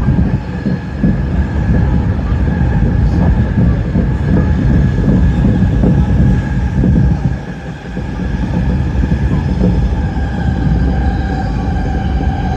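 Electric commuter train running along the line: a dense, steady rumble of wheels on rails with a steady electric motor whine that grows stronger near the end, and a brief drop in the rumble a little past halfway.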